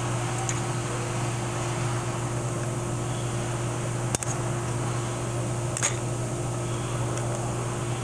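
Steady hum of a fan or air-conditioning unit, with two short sharp clicks about four and six seconds in.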